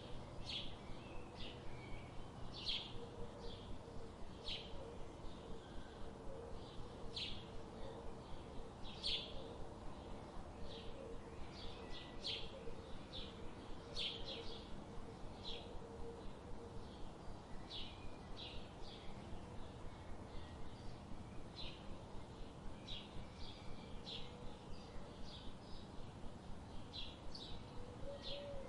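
Birds chirping: many short, high chirps, one or two a second, over a steady faint background hiss.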